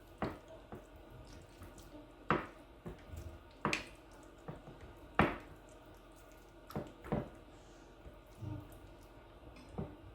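Water dripping and light knocks at a kitchen sink: about eight separate short strikes at uneven intervals.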